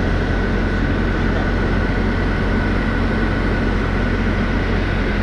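Bus engine and air-conditioning system running steadily: a constant low hum under an even machinery noise, with a steady high whine on top.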